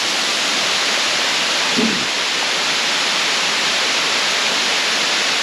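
Ellinjaa Falls, a rainforest waterfall, giving a loud, steady rush of falling water, with rain coming down as well.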